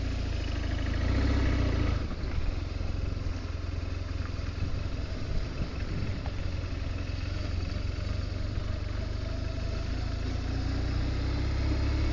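A vehicle engine running steadily with a low rumble, its pitch rising slightly near the end.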